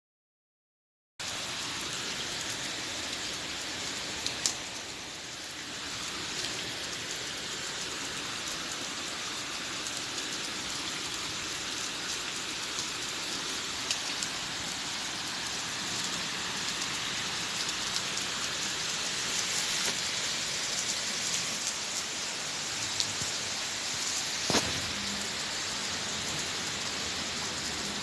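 Steady rain falling, an even dense hiss that starts abruptly about a second in, with a couple of sharper drop-like taps, one about four seconds in and one near the end.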